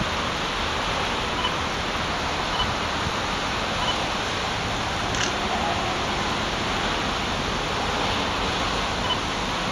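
Freight train rolling past, a steady rushing noise of its wagons on the rails.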